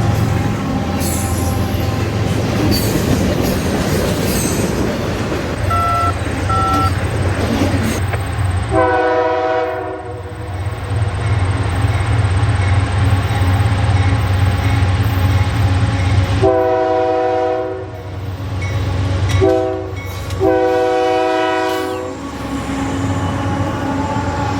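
Norfolk Southern diesel freight locomotive running with a steady low rumble while its multi-chime air horn sounds the grade-crossing signal: two long blasts, one short and one long.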